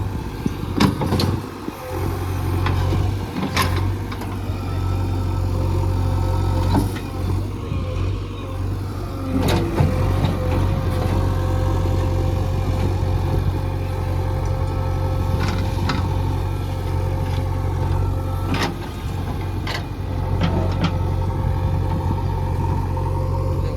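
Heavy diesel engine of earth-moving machinery running steadily at constant speed, with several sharp knocks and clanks scattered through it.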